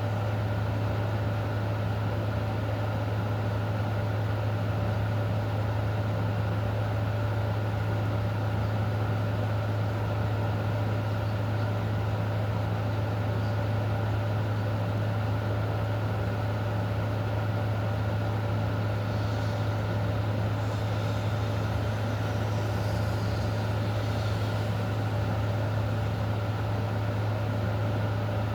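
Even hiss of steady rain under a loud, constant low hum that never changes.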